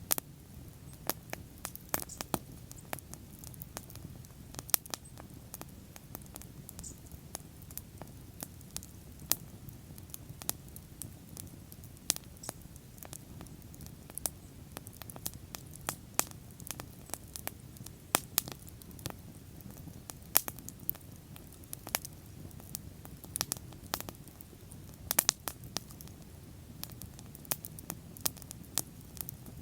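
Bonfire burning, the wood crackling in irregular sharp snaps over a low, steady rumble of the flames.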